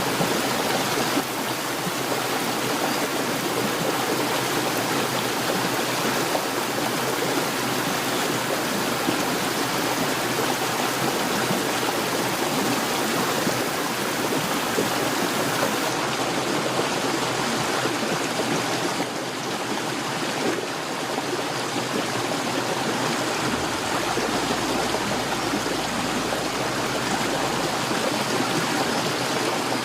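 Heavy rain pouring steadily, a dense even hiss of water with no break or thunderclap.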